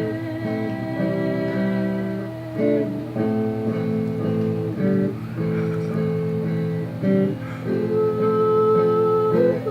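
Acoustic guitar strumming and holding chords in an instrumental break between sung lines, a fresh strum every couple of seconds.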